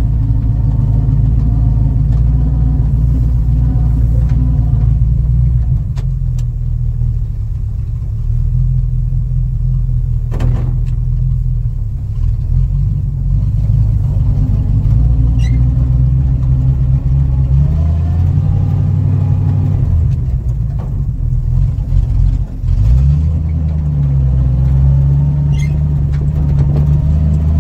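A 1952 Ford F3 pickup's flathead V8 engine running as the truck is driven, with a loud, steady low rumble. The engine speed shifts several times, with a brief drop about three-quarters of the way through.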